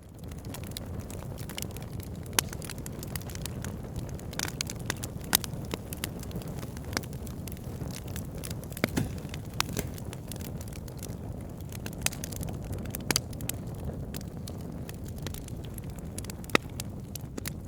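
Wood fire burning with crackling logs: a steady low rush of flame under irregular sharp pops and snaps, a few of them louder than the rest.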